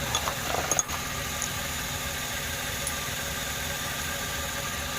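Mitsubishi Mirage engine idling steadily and evenly, running normally now that fresh spark plugs have cured its hard starting. A few light clicks and rustles come in the first second.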